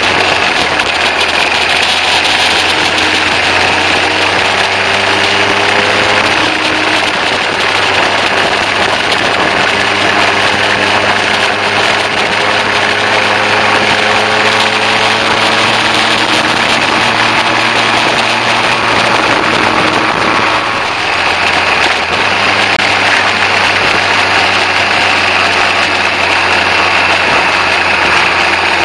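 Kawasaki ZZ-R1100's inline-four engine running while riding, mixed with heavy wind and road noise on a bike-mounted microphone. The engine note rises and falls slowly.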